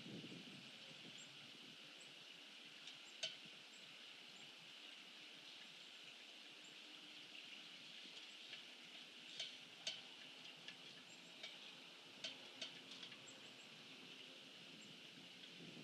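Faint outdoor ambience with a steady high hiss and scattered short, sharp bird chirps. One chirp comes about three seconds in, and pairs of chirps come around the middle and two-thirds of the way through.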